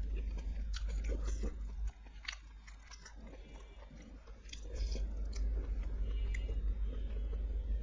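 Close-miked eating: a person biting and chewing food with its mouth open, with wet smacks and short crunchy clicks. A low hum runs underneath; it drops away about two seconds in and comes back about two and a half seconds later.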